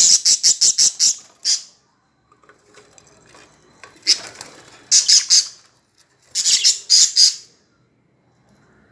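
Lovebirds calling in shrill, rapid runs of chirps, about six a second, in three bursts with short pauses between.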